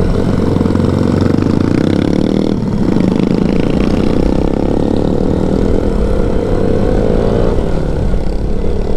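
Motorcycle engine running while being ridden on the road, with wind rumble on the microphone. The engine pitch dips briefly about two and a half seconds in, then rises and falls as the bike is ridden.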